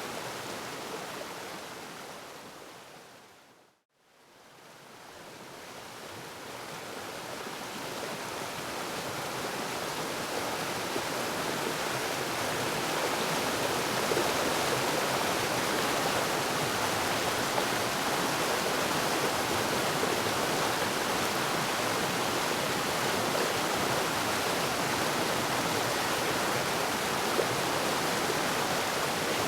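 Waterfall rushing as a steady, even roar of water, which fades out to silence about four seconds in and then gradually swells back to full over the next several seconds, as at a loop or edit point in the recording.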